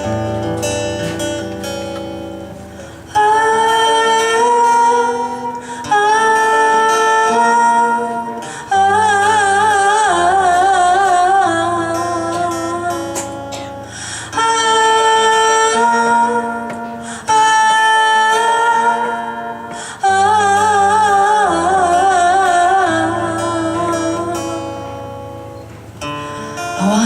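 Live band music: strummed acoustic guitar chords, joined about three seconds in by a melody of long-held notes with vibrato, in phrases of a few seconds each.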